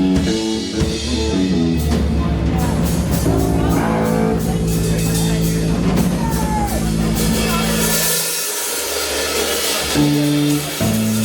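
Live rock band playing: electric guitar and bass over a drum kit with cymbals. About eight seconds in the drums drop away, leaving sustained low guitar and bass notes.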